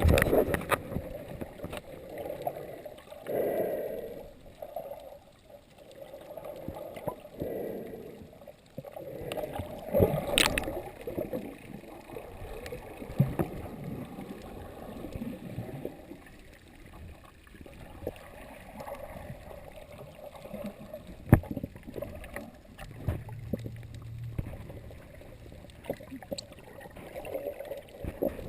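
Water sloshing and gurgling unevenly, with a few sharp knocks, the clearest about ten and twenty-one seconds in.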